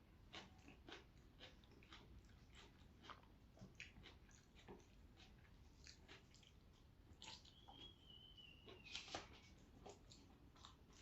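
Faint close-up chewing and crunching of raw and fried vegetables with rice, many short crisp bites and mouth clicks. About seven seconds in, a high thin drawn-out sound that falls slightly in pitch rises over the chewing for a second and a half.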